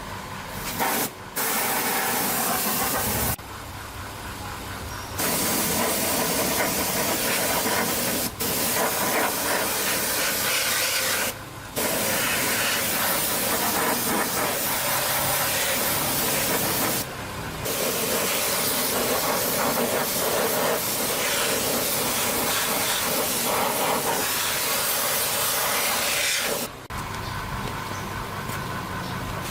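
Loud spray hiss in long bursts, switched on and off several times, over a low steady motor hum.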